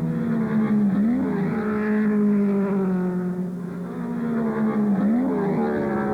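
A car engine running hard, its pitch holding steady and then dipping and jumping back up twice, about a second in and again near five seconds, as with gear changes.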